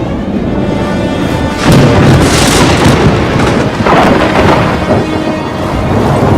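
Thunderstorm: two loud thunderclaps, the first sudden about a second and a half in and the second about four seconds in, over steady rain.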